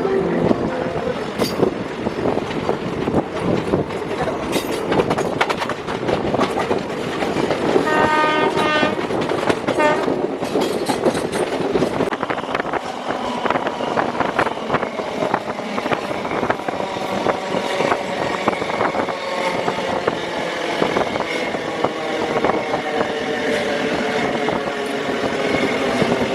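Indian passenger train running on the rails, its coaches clattering and rattling steadily. A train horn sounds briefly about eight seconds in, and a faint drawn-out whine carries through the second half.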